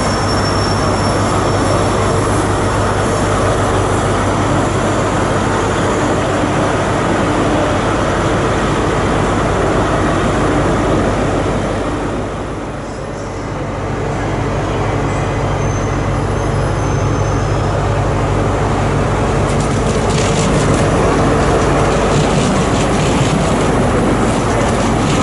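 A train running at the station: a loud, steady rumble and hum that dips briefly about halfway through. Faint high wheel squeal follows, and rapid rail clatter comes near the end.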